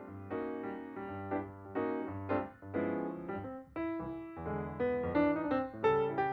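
Background piano music: a gentle melody of struck notes over a low bass line.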